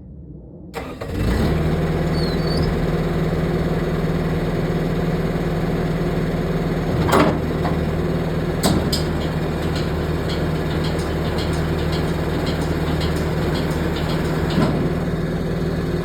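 Bobcat skid steer's engine starting about a second in, then running steadily, with a few sharp knocks along the way.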